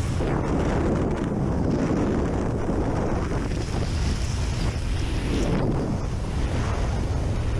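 Strong wind buffeting the microphone: a steady, loud, low rushing noise.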